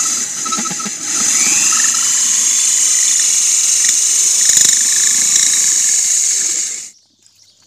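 Corded electric drill with a diamond drill bit grinding into a clay pot: a steady high-pitched grinding that stops suddenly about seven seconds in.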